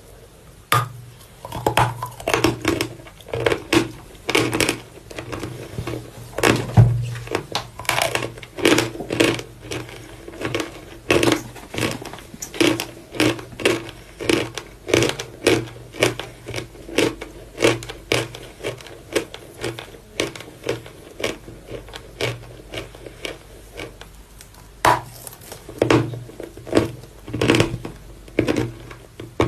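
Close-miked biting and chewing of Petropavlovka edible chalk: sharp, crackly crunches about two a second, with brief pauses between bites.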